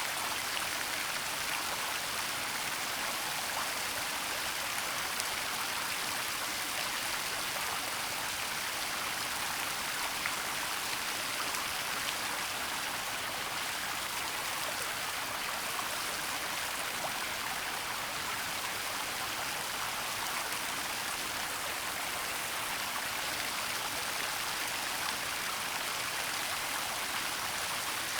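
Waterfall in a forest: a steady rush of falling and splashing water, an even hiss weighted toward the high end with little low rumble.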